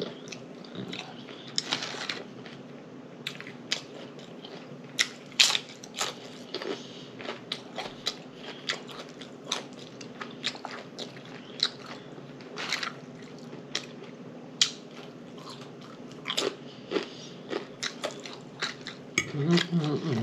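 A person chewing and biting into chicken taco salad, with irregular wet lip smacks and crunches.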